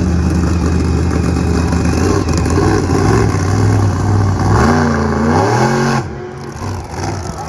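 Monster truck engine running loud and steady, then revved up and down in several quick swells about four and a half seconds in; the sound falls away suddenly about six seconds in.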